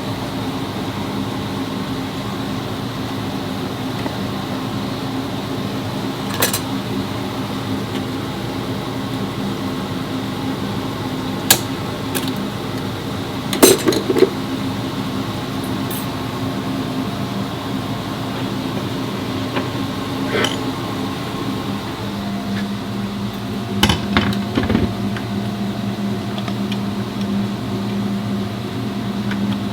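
Steady mechanical hum with a few sharp metallic clinks and knocks scattered through it, the loudest about halfway, typical of tools and parts being handled in a repair workshop.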